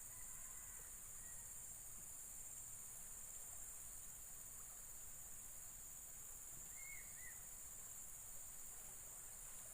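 Steady, high-pitched chorus of insects, faint overall, with a short faint chirp about seven seconds in.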